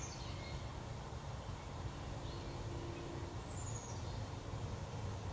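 Quiet outdoor ambience with a few faint, short falling bird chirps and a low steady hum.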